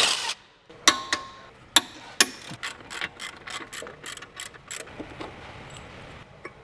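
Hand ratchet wrench clicking as bolts are worked on a car's front brake and wheel hub: a few spaced clicks at first, then a quicker run of about three to four a second that dies away about five seconds in. A brief rush of noise comes right at the start.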